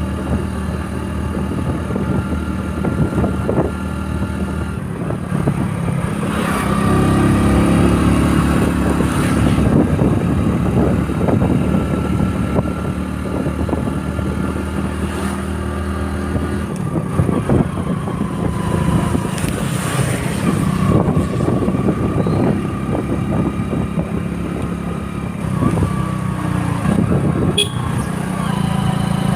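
Motorcycle engine running steadily while riding, its note shifting in pitch a couple of times as the speed changes.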